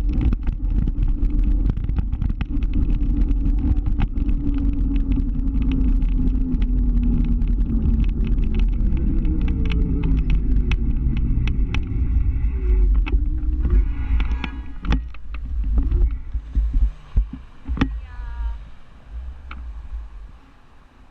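Motor scooter engine running under way with rumble on the microphone, its pitch falling as the scooter slows. Near the end it gets quieter and uneven, with several sharp knocks.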